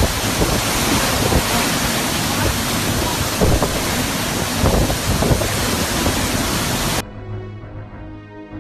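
Storm wind and rain rushing over the microphone, a loud, steady noise with gusts, typical of hurricane footage. It cuts off abruptly about seven seconds in and gives way to quieter music.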